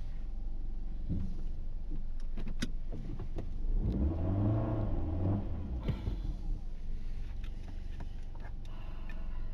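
Car engine running, heard inside the cabin, revving up for about two seconds about four seconds in and then dropping back, as the car, stuck on packed snow, tries to get traction. A few sharp clicks come shortly before the rev.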